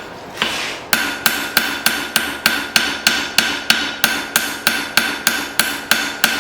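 Blacksmith's hammer striking hot steel from an old file on an anvil: after a short pause near the start, a steady run of blows about three a second, with the anvil ringing on between them. Light taps that knock scale off the steel rather than forging it hard.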